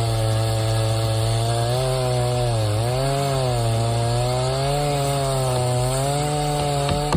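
A wood-cutting machine's engine running hard and steady. Its pitch sags briefly a few times as it takes load, then cuts off abruptly at the end.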